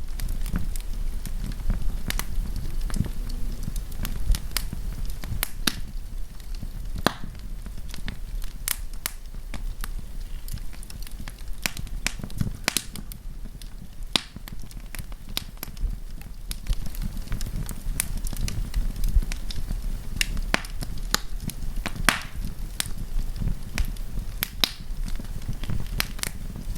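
Wood campfire crackling: irregular sharp pops and snaps, several a second at times, over a steady low rumble.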